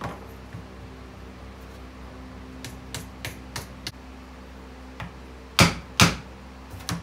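A few light metallic taps, then two loud, sharp hammer blows about half a second apart near the end, driving the preload spring into a Ford 8.8 Traction-Lok limited-slip differential carrier, over a steady low hum.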